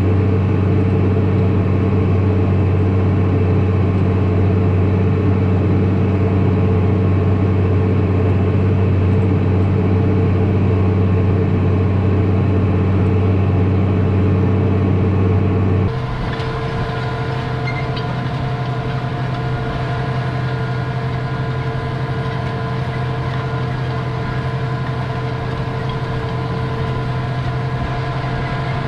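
Tractor engine running steadily with a deep, even drone. A little over halfway through it changes abruptly to a slightly quieter, thinner engine sound.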